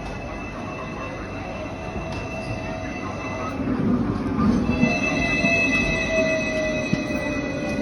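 Hong Kong tram's steel wheels squealing on the rails as it rolls along, several steady high squealing tones over a low rumble, getting louder about five seconds in.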